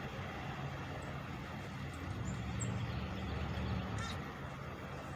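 Engine running steadily with a low hum, swelling louder for a couple of seconds in the middle, with a few faint high chirps over it.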